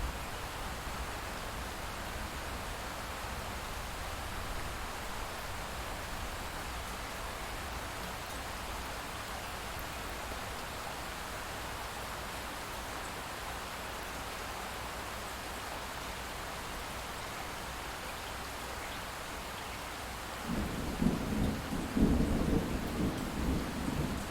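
Light rain falling steadily. Near the end a low rumble of distant thunder rolls in and rises above the rain.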